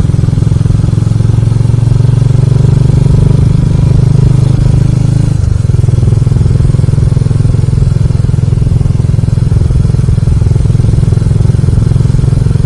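Motorcycle engine and wind noise heard from the rider while cruising at expressway speed: a loud, steady low drone with rushing wind over the microphone, shifting slightly about five seconds in.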